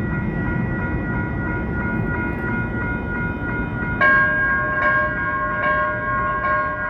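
Metro Transit Blue Line light rail train running over a low rumble, with a pitched warning bell sounding steadily. About four seconds in, a louder, lower bell starts dinging repeatedly, a little more than once a second.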